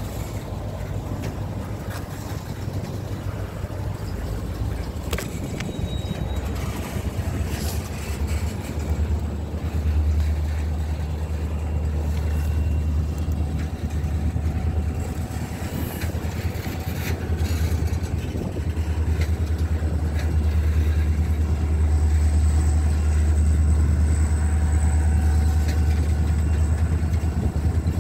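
Freight train of boxcars rolling past close by: a steady low rumble of the wheels on the rails, with scattered clicks and clanks, growing somewhat louder in the second half.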